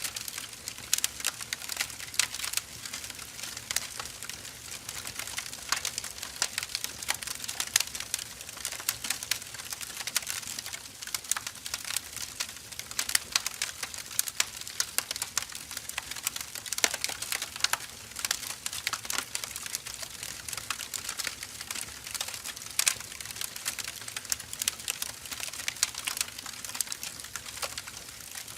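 Firewood burning: a continuous run of irregular crackles and small pops, with sharper, louder snaps scattered throughout.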